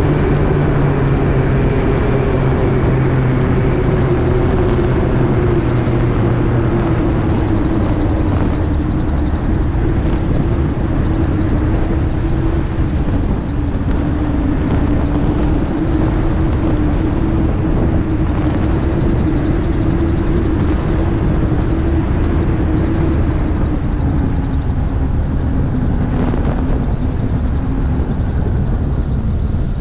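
AutoGyro MTOsport gyroplane in flight: steady drone of the engine and pusher propeller, heard from on board over rushing wind. The low part of the drone eases off about seven seconds in, and the pitch drifts slightly lower near the end.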